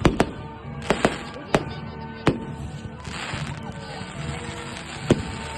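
Fireworks going off with sharp bangs, several in quick succession in the first two and a half seconds, then one more about five seconds in, over background music.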